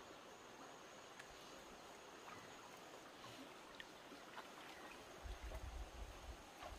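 Faint floodwater flowing and lapping, with a few scattered faint ticks and a brief low rumble a little after five seconds in.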